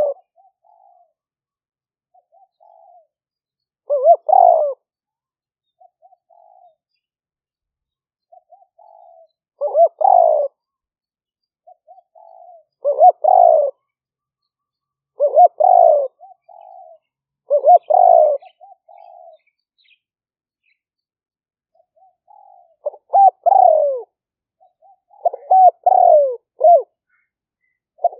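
Spotted dove cooing: repeated short phrases of low, curving coos every few seconds, with softer single notes between them. Near the end the phrases come closer together.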